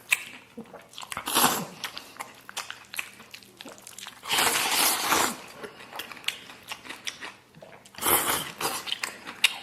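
Close-miked chewing of a big mouthful of food, with wet smacking and crunching clicks throughout and three louder bursts of noise, about a second, four seconds and eight seconds in.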